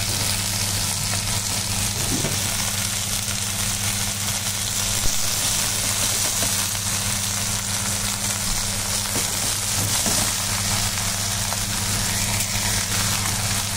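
Moringa leaves frying in a metal wok over a gas flame: a steady sizzling hiss over a steady low hum, with one short sharp knock about five seconds in.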